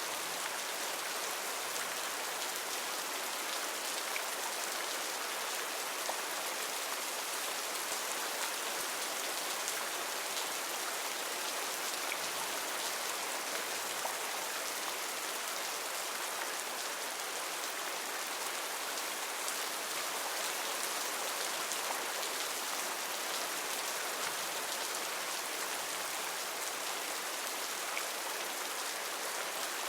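Steady heavy rain falling on foliage and ground, a dense even hiss with scattered individual drop patters.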